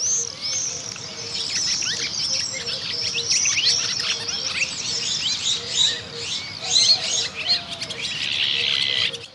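A flock of Iberian azure-winged magpies calling, many short overlapping high chirps and quick rising and falling notes in continuous chatter.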